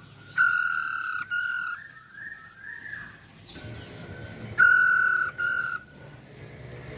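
Female masked laughingthrush (Poksay Hongkong) calling: two loud, harsh paired calls, the first about half a second in and the second about four seconds later, over fainter chirps and whistled notes.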